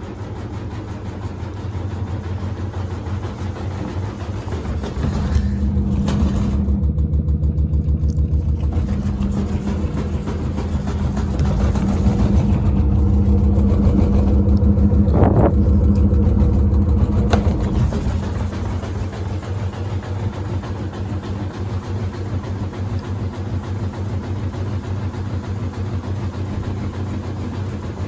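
Samsung front-loading washer-dryer spinning a drum loaded with sneakers: motor hum and drum rotation with fast, even knocking. It builds louder to a peak a little past halfway, with a brief rising whine, then eases back. The shoes unbalance the drum and make the machine jump.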